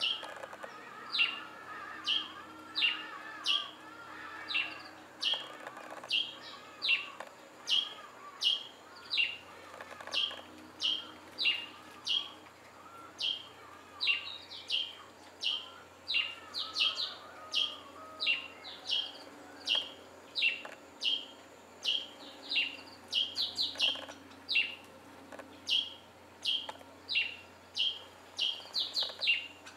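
A bird repeating a short, sharp down-slurred call about twice a second, with softer, lower twittering beneath it through the first part.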